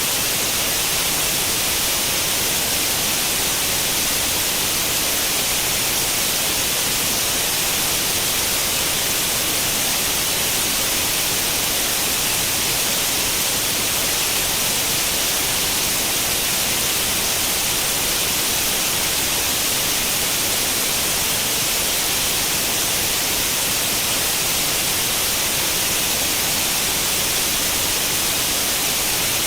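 Steady white noise like the static of an untuned tube television: an even, unchanging hiss, strongest in the upper range.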